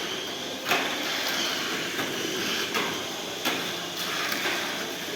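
Steady background noise with about five sharp clicks or knocks spread through it, the first and loudest about a second in.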